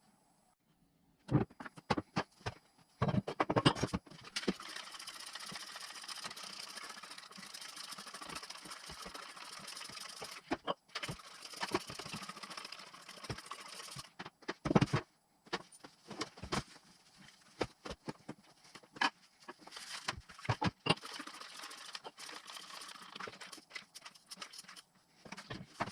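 Metal tools and engine parts clinking and knocking, irregular sharp clicks, over long stretches of steady hissing noise.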